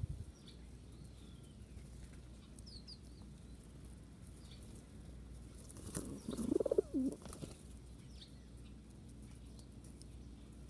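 Birds: faint, short high chirps now and then, and about six seconds in a louder burst of wing flapping with a low, wavering call lasting about a second and a half.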